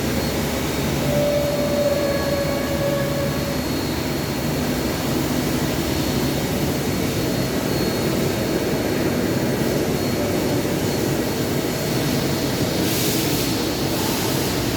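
Machine tool running steadily, as in CNC gear machining, with a brief whine in the first few seconds and a short hiss about thirteen seconds in.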